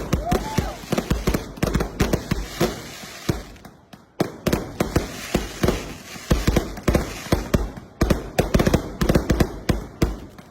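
Multi-shot fireworks cake firing rapid volleys of sharp bangs and crackles, with a short lull about four seconds in.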